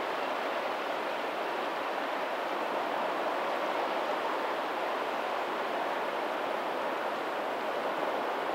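Steady rush of moving water where a lagoon's tidal outflow meets the sea. It keeps an even level throughout, with no separate wave crashes standing out.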